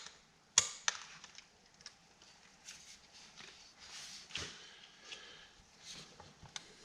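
Faint handling noises: one sharp click about half a second in, then scattered light clicks and taps.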